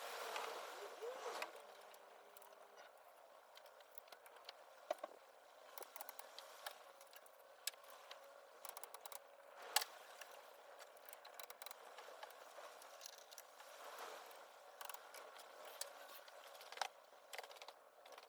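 Scattered light clicks and knocks of engine parts and hand tools being handled during top-end assembly, the loudest about ten seconds in, over a faint steady hum.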